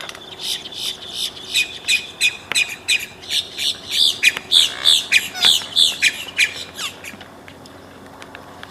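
Birds giving many short, sharp calls in quick succession, several a second, loudest around the middle and thinning out near the end.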